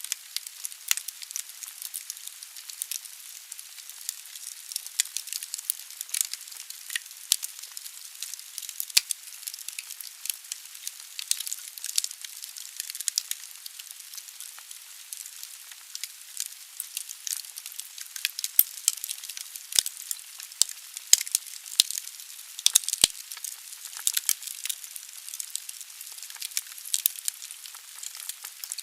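Wood fire burning in a fireplace: a steady high hiss with frequent sharp crackles and pops from the burning logs.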